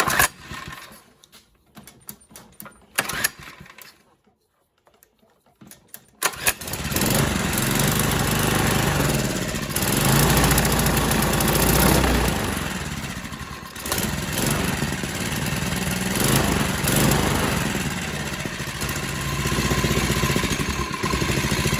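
Mini bike's small engine started on choke: a few short sputters, then it catches about six seconds in and keeps running, its speed rising and falling. It will only run with the choke on, a sign that the carburetor is still partly clogged.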